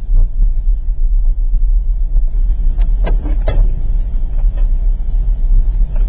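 Car driving slowly, a steady low rumble of the engine and tyres heard from inside the cabin, with a few short sharp knocks about three seconds in.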